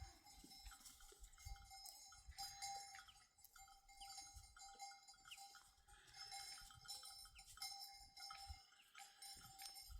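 Faint, irregular clinking and ringing of livestock bells.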